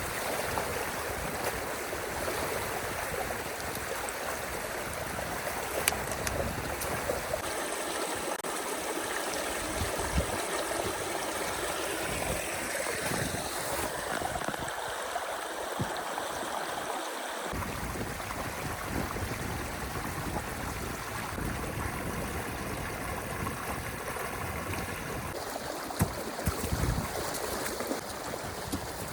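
Water from a breached beaver dam running steadily down a drainage channel, with a few short knocks now and then.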